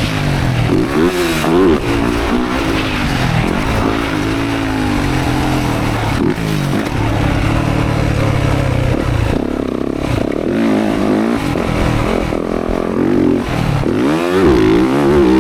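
Motocross dirt bike engine revving up and down over and over, its pitch climbing and dropping as the throttle opens and closes.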